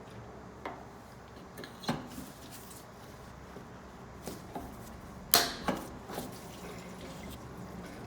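Scattered small clicks and knocks, the sharpest about five seconds in, as the electrical connectors and small hoses are fitted to a motorcycle's fuel tank.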